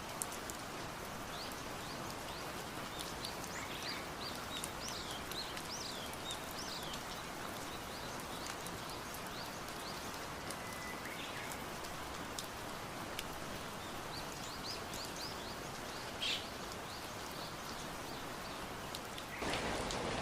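Steady rain falling, with birds calling in quick runs of short chirps a few seconds in and again past the middle. Near the end the rain suddenly becomes louder.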